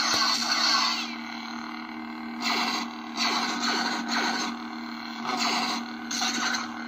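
SaberForge lightsaber sound board playing its Crimson dark-side sound font: a steady electric hum with several swing swooshes, each about half a second long, as the saber is moved.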